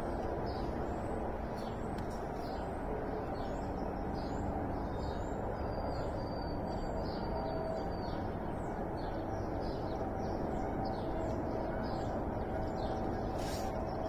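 Songbirds chirping outdoors, many short falling notes in quick succession, over a steady low noise that is louder than the birds.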